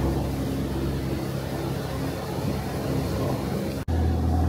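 River tour boat's engine running steadily under way, with the rush of water and wind. The sound breaks off abruptly near the end and resumes at a slightly different pitch.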